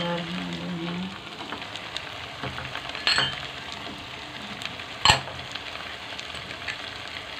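Chicken and onions sizzling as they fry in ghee in a pan. There are two sharp knocks, about three seconds and about five seconds in, and the second is the louder.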